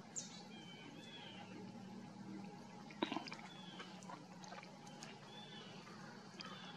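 Faint outdoor quiet with a few distant bird chirps, and a single sharp knock about three seconds in.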